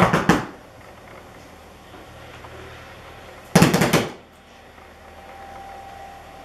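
Two short runs of rapid, sharp knocks: one at the start and another about three and a half seconds later, each made of a few quick strokes.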